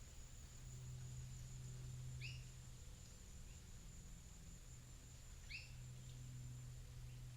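Faint natural soundscape: a steady high-pitched insect buzz over a low steady hum, with two short bird calls about three seconds apart.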